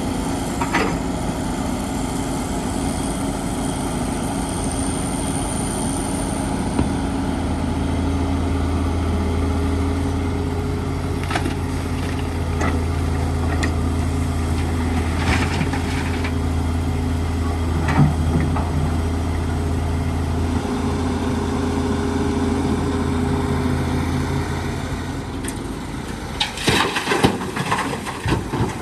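Heavy construction-machine diesel engine running steadily with a deep drone that strengthens about a quarter of the way in and fades near the end. A short cluster of clanks and knocks comes near the end.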